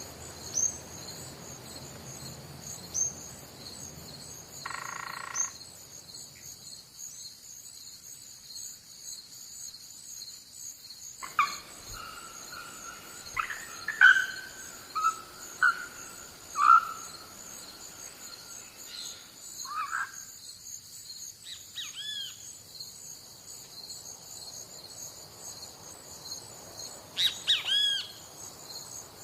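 Insects trilling in a steady high-pitched chorus, with a bird calling: a brief call about five seconds in, a run of short, sharp whistled notes in the middle, and a few more calls near the end.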